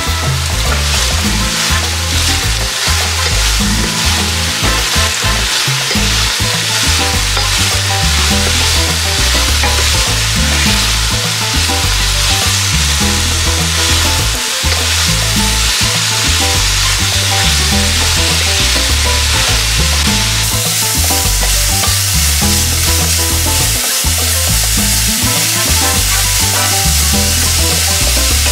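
Stir-fry sizzling in a hot stainless steel pan while a wooden spatula turns beef, mushrooms, red chilli and celery. The sizzle grows louder about twenty seconds in.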